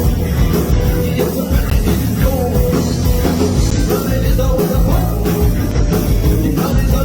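A rock band playing live, loud and steady, with no clear vocal line.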